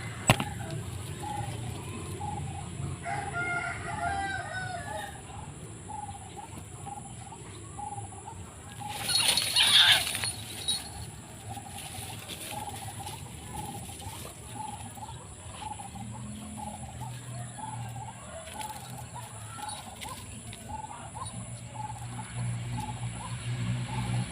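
White-breasted waterhen calls, a steady rhythmic run of short repeated croaking notes. About nine seconds in, a loud rustling burst lasts about a second and a half.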